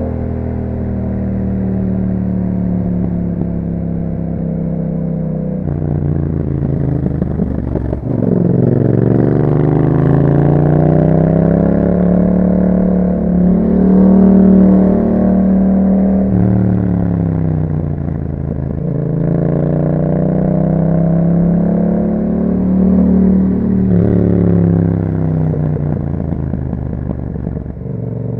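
2021 Yamaha MT-07's parallel-twin engine running through an Akrapovič exhaust while riding. The engine note is steady at first, then rises and falls several times as the bike accelerates and eases off, and is loudest about halfway through.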